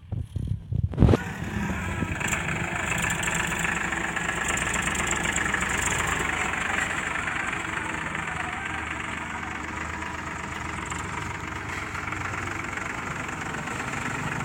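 An engine starting about a second in with a loud knock, then running steadily.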